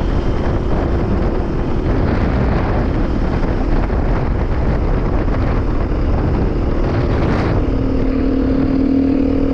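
Dirt bike being ridden: the engine runs under a dense rush of wind and road noise. About two-thirds of the way through, the engine settles into an even, steady hum.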